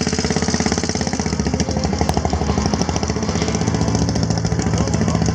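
Antique motorcycle engine running close by, its exhaust beating in a rapid, even pulse.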